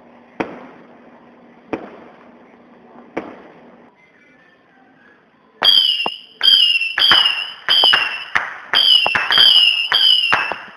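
Fireworks: single bangs about every second and a half, then after a short lull a firework cake firing a rapid string of whistling shots, about two a second, each a loud bang followed by a short whistle falling in pitch.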